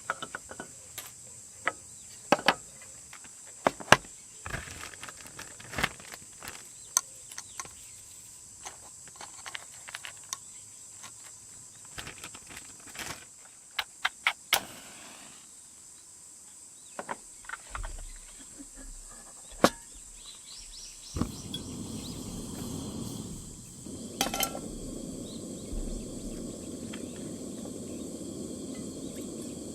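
Scattered sharp clicks and knocks over a steady high insect trill. About two-thirds of the way in, a steady low rushing noise starts and continues.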